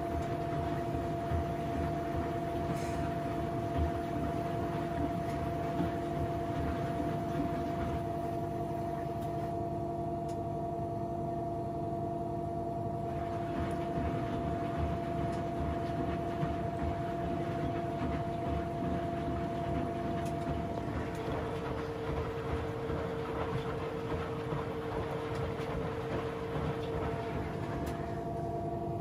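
Washing machine running, a steady mechanical drone with a motor whine whose pitch steps to a different tone about 21 seconds in.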